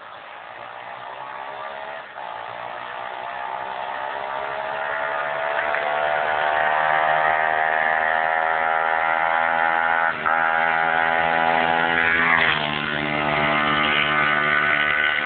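125 cc four-stroke pit bike engine running under throttle, growing louder and rising slowly in pitch as it nears. It dips briefly about ten seconds in. About two seconds later the pitch drops suddenly, and it then runs on steady and loud.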